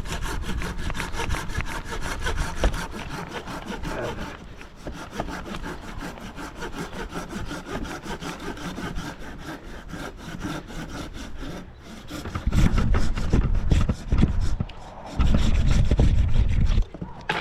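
Hand saw cutting through wood in steady back-and-forth strokes, the teeth rasping. Two spells of loud low rumble come near the end.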